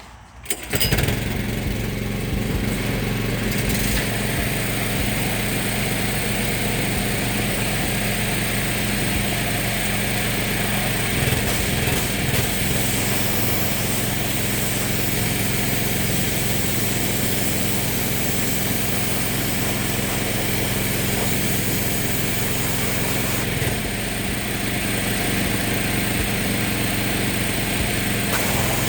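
Pressure washer switched on about a second in and running steadily, with the hiss of its water spray, rinsing degreaser off an engine bay.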